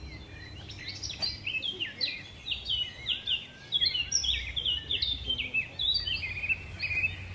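Songbirds singing: a rapid, continuous string of short high chirps, many sliding downward in pitch and some overlapping, over a faint steady low hum.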